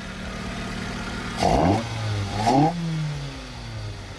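Toyota 4A-GE 20-valve 'blacktop' engine on individual throttle bodies idling, blipped twice at the throttle linkage about a second and a half and two and a half seconds in. Each rev rises quickly and drops back to idle.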